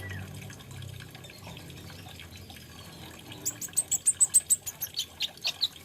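Kolibri ninja, a sunbird, giving a fast run of sharp, very high chips, about five a second, starting a little past halfway, over a faint steady hiss.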